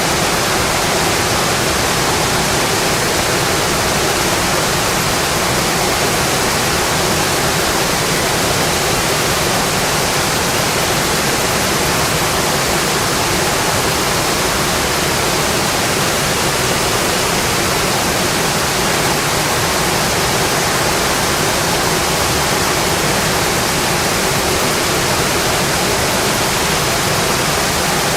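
Steady rain, an even unbroken hiss with no separate drops or crackles standing out.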